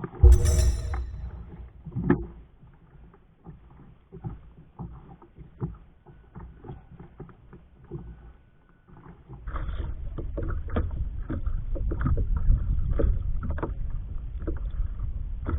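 Water splashing and knocking against a kayak's hull, with scattered small knocks and one louder knock about two seconds in. A steady low rumble joins from about nine seconds in.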